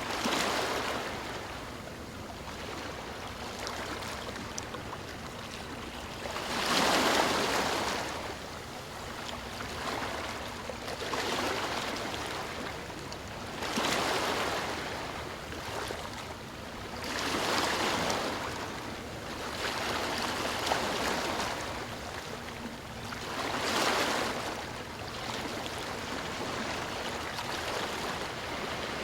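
Sea waves washing onto the shore, each one swelling up and falling back about every three to four seconds over a steady hiss of surf.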